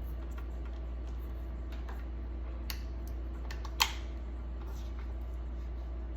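Scattered light clicks and taps, with one sharper click about four seconds in, over a steady low hum.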